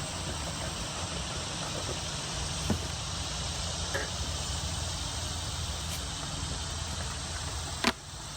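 Honeybees buzzing around the hives in a steady drone, with a few light knocks and a sharp click near the end.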